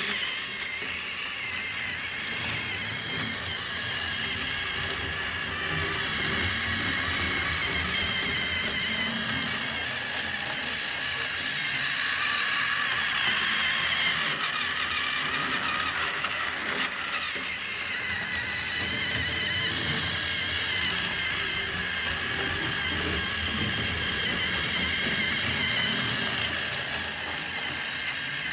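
Battery-powered Trackmaster toy train engine, refitted with a Tamiya Hyper-Dash Pro high-speed motor, running fast around its plastic track: a steady, high-pitched motor whine. It grows slightly louder and then quieter again partway through.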